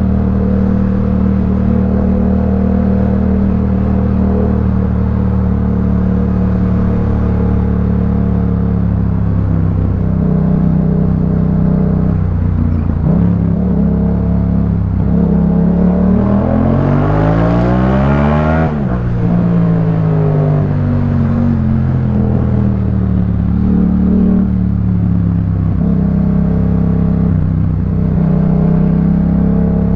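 Yamaha MT-07's 689 cc parallel-twin engine through a Jeskap K4 full aftermarket exhaust, running steadily under way. About two-thirds of the way in the revs climb hard to a peak, then fall away as the throttle closes, before the engine settles back to a steady run.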